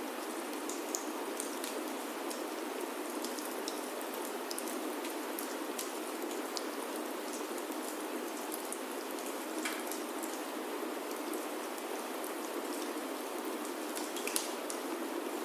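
Steady rain falling on a wooden chalet roof, with scattered sharp clicks through it.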